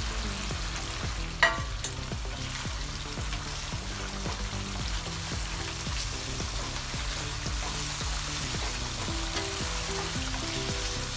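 Thick masala gravy sizzling in a pan as fried boiled eggs are stirred into it with a spatula, with one sharp knock about a second and a half in. Soft background music with changing notes runs underneath.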